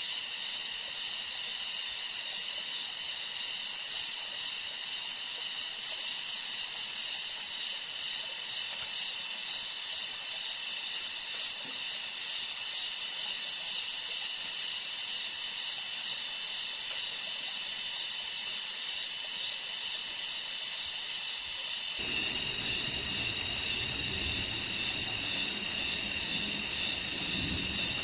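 A dense chorus of cicadas: a steady, high, finely pulsing drone. About 22 s in it changes suddenly, and a low rumble joins under the drone.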